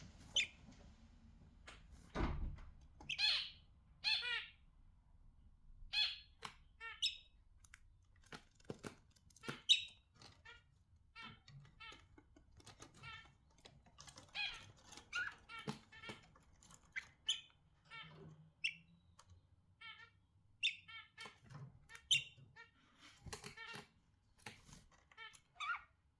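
Budgerigars chirping and chattering in quick short calls, with a few clicks and a dull knock about two seconds in.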